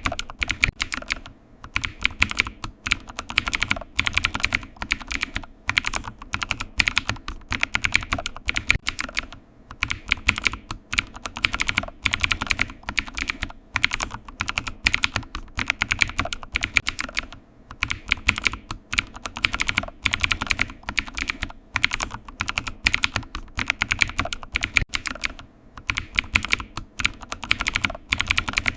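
Computer keyboard typing: rapid runs of key clicks with short pauses every few seconds.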